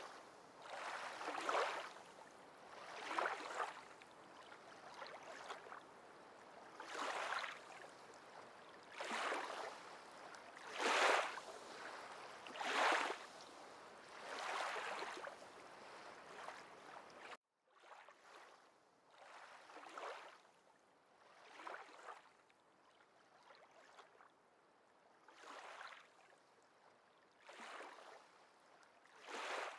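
Water lapping in gentle, regular swells about every two seconds, like small waves washing against a lake shore. The sound cuts out for a moment just past halfway and comes back softer.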